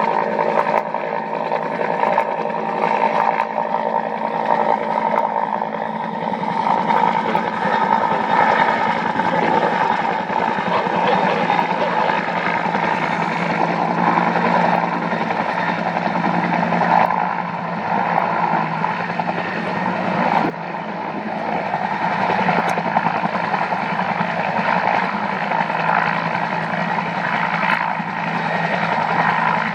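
Aircraft turbine engines and rotor or propeller running steadily with a continuous drone and a fine, even flutter underneath.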